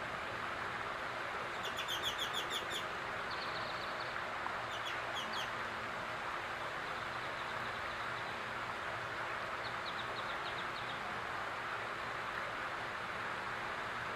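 Backyard fountain's water running steadily, with a songbird calling over it: a quick series of chirps about two seconds in, the loudest sound, then shorter trills and chirps around five seconds and again around ten seconds.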